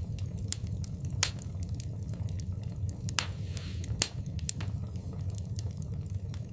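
Wood fire burning in a fireplace: a steady low rumble of the flames with scattered sharp crackles and pops, the loudest about a second in and again about four seconds in.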